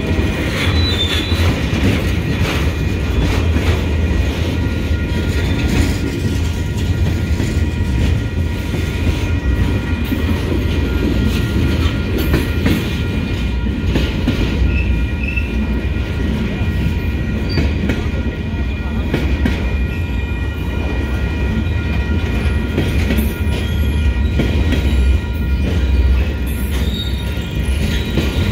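Freight train of empty military flatcars rolling past, a loud steady rumble of wheels on rail with clacking over the joints. Several steady high tones ride over it throughout, typical of wheel squeal.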